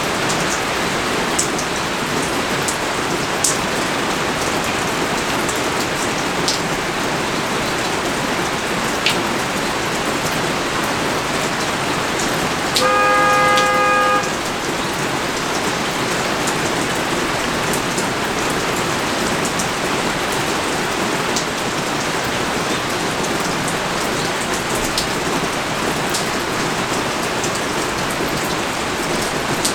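Heavy rain falling steadily, with scattered sharper drops ticking close by. About halfway through a horn sounds once, a steady single note held for about a second and a half.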